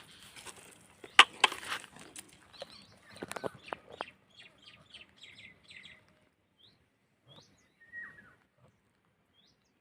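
Small bird chirping: a quick run of short, falling high chirps, about three a second, then a few scattered single calls. A handful of sharp clicks and knocks in the first seconds, the loudest about a second in.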